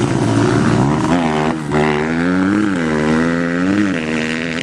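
Motocross bike engine revving under a working throttle. Its pitch climbs steeply about a second in, dips, then rises and falls several times.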